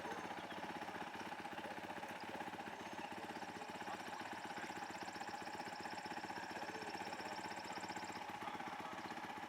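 Small engine idling steadily, its firing even and unchanging, with a faint fast high rattle through the middle.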